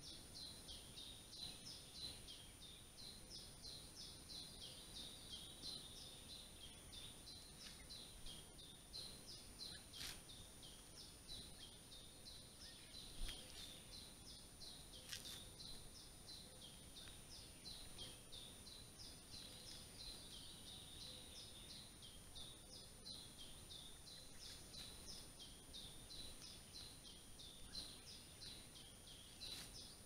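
Faint forest ambience: a small bird repeats short high chirps, about two or three a second, over a steady thin high whine. A few soft clicks stand out, one about thirteen seconds in.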